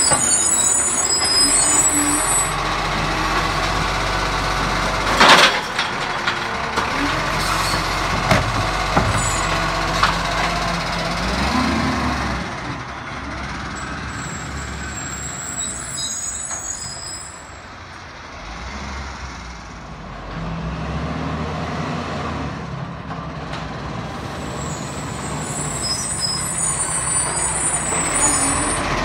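Recycling garbage truck running, with air-brake hisses near the start and near the end. A single sharp, loud knock comes about five seconds in, then a few lighter knocks; the engine drops in level for a few seconds past the middle before picking up again.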